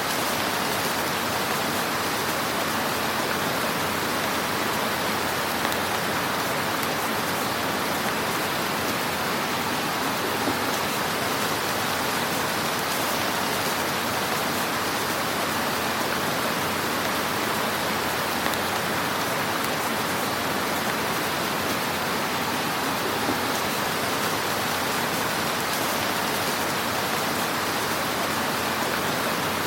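Fire burning in a fireplace: a steady, dense crackle and hiss, with a few slightly sharper pops.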